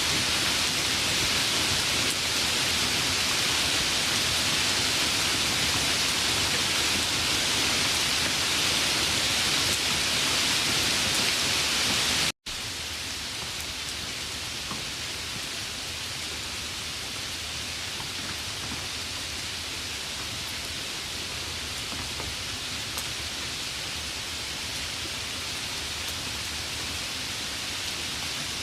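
Steady rain hissing. About twelve seconds in it cuts out for an instant, then carries on noticeably quieter.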